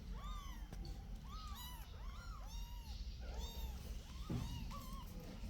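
Several young kittens mewing over and over, short arched high-pitched calls that overlap one another a few times a second.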